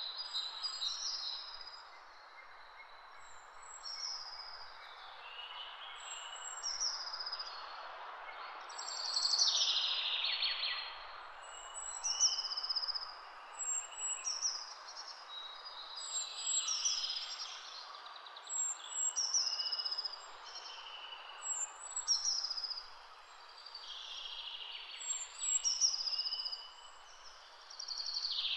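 Birds chirping over a steady background hiss, in an outdoor ambience recording: short, high, falling chirps repeat every second or two.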